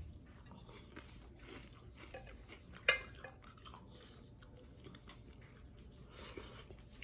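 Close-up chewing and crunching of a crispy fried taro and shrimp fritter (bánh khoai môn chiên tôm), with one sharp click about three seconds in.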